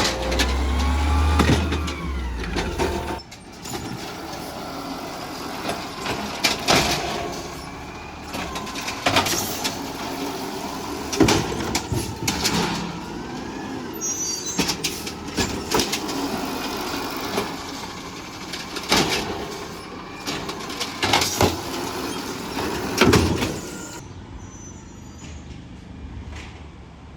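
Garbage truck at work: its engine rumbles loudly for the first few seconds, then a series of sharp metallic bangs and clanks comes roughly every two seconds over the running truck, with some brief squeals.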